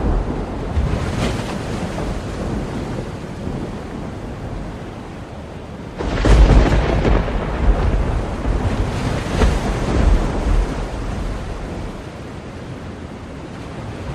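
Thunder rolling over steady sea surf and wind. A loud thunderclap breaks about six seconds in and rumbles with several swells for about four seconds before fading back into the surf.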